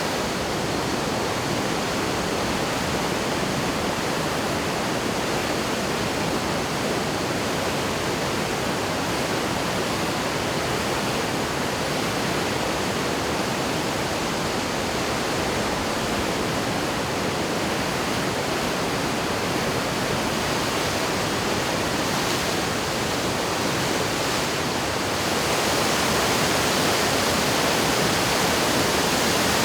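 Steady rushing of the Yoshida River in flood, swollen by typhoon rains, an even wash of water noise that grows a little louder and brighter about 25 seconds in.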